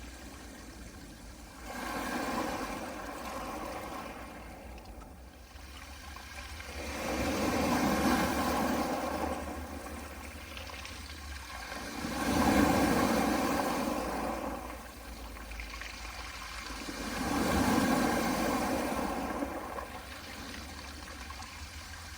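Small waves breaking on a pebble beach, four swells of wash about five seconds apart, each rising and fading away, over a steady low rumble.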